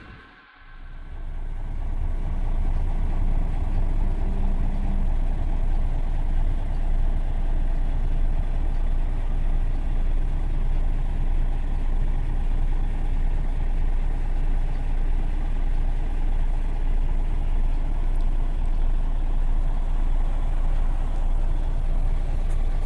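Truck on the move: steady, low engine and road rumble, building up over the first two seconds and then holding even.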